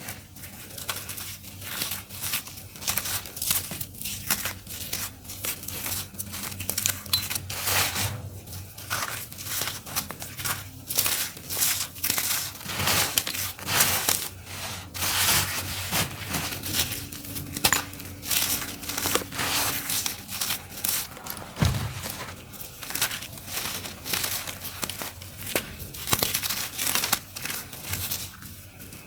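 Dry, crunchy clumps of dirt being crumbled by hand and falling to the floor in a dense, irregular crackle of many small crunches.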